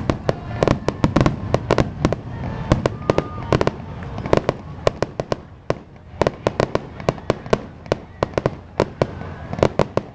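Firecrackers popping in rapid, irregular succession, a dense run of sharp cracks that thins out briefly around six seconds in.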